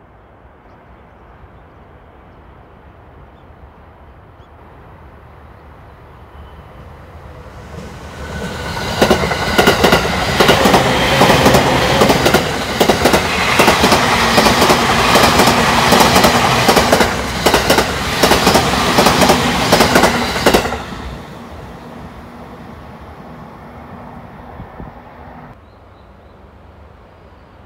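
A multi-car electric commuter train passes close by: it is heard approaching, then its wheels clatter rapidly over the rail joints for about twelve seconds with a steady hum underneath. The clatter cuts off suddenly as the last car goes by, leaving a fading rumble.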